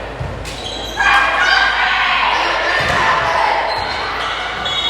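Basketball bounces with dull thuds on a gym floor, and from about a second in sneakers squeak sharply on the hardwood among players' shouts, echoing in the large hall.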